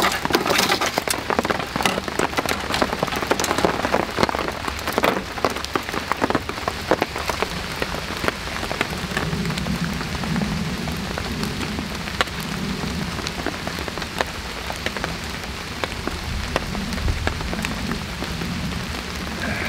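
Heavy rain pattering steadily, densest over the first several seconds.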